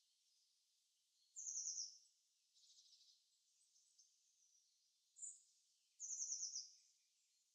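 Small bird singing faintly, two trills of quick repeated high notes, about a second and a half in and again at six seconds, with a short chirp and softer twitters between.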